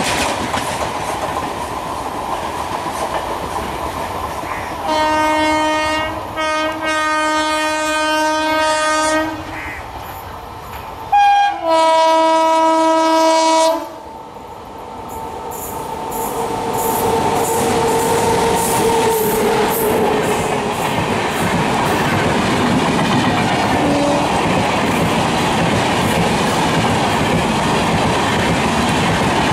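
Train running past, then an electric locomotive's horn in a long blast with two brief breaks, a short toot and a second long blast. The WAP-7 electric locomotive and its LHB coaches then rush past with the clickety-clack of wheels over the rail joints.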